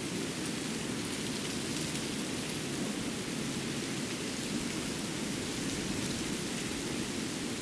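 Steady, even rushing noise of a winter forest ambience, with a few faint ticks scattered through it.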